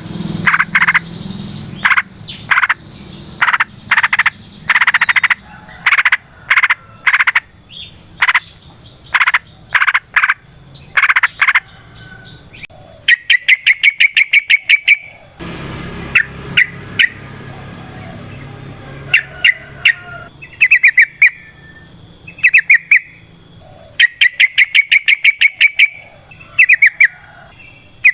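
Yellow-vented bulbul (trucukan) calling: loud runs of short chattering notes in the first half, then fast, evenly spaced rattling trills of a second or two each, repeated several times.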